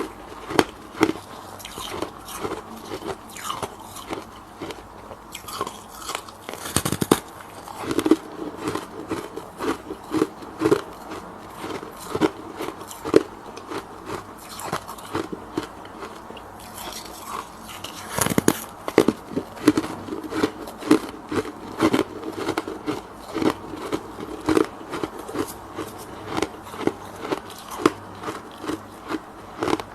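Freezer frost being bitten and chewed: a continuous run of crisp crunches, several a second, with a few louder bites along the way.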